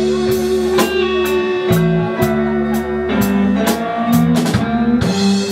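Blues band playing between sung lines: guitar over a steady drum-kit beat, about two drum hits a second.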